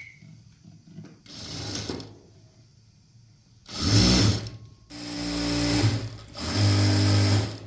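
Electric sewing machine running in four short bursts of stitching, each about a second long. The first burst is fainter and the last three are louder.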